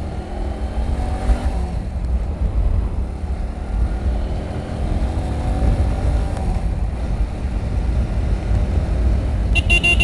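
Motorcycle riding along, its engine running steadily under a heavy low rumble of wind on the microphone. Near the end there is a brief high-pitched tone.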